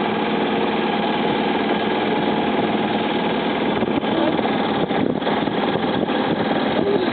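A sailboat's motor running steadily while the boat is under power, a continuous drone with a steady hum.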